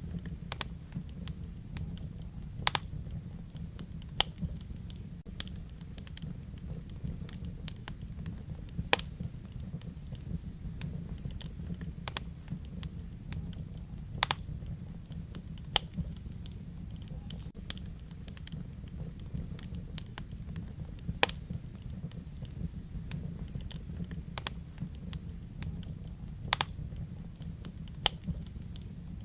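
Wood fire crackling in a fireplace: sharp, irregular pops and snaps scattered among smaller ticks, over a steady low rumble of the burning.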